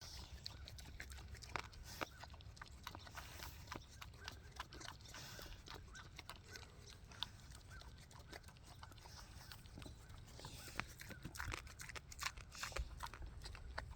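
A pig eating cornmeal: irregular smacking and crunching chews, many quick clicks in no steady rhythm.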